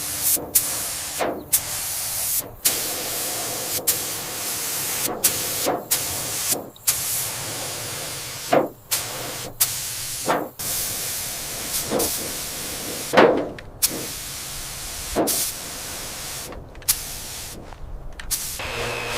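Hissing spray noise, chopped into short takes about every second, with sharp knocks at many of the cuts.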